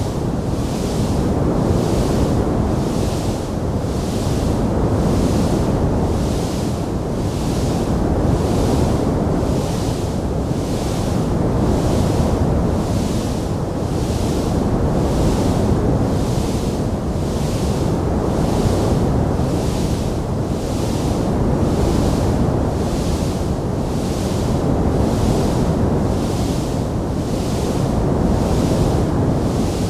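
Steady rushing roar of a wood fire in a fireplace, low and dense, with a high hiss that swells and fades about once a second; no distinct crackles stand out.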